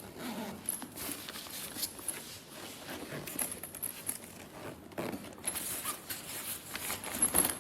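Fabric cooler backpack being handled and unzipped: irregular rustling and scraping with small clicks.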